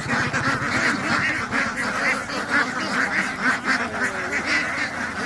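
A large flock of ducks quacking continuously, many overlapping calls at once.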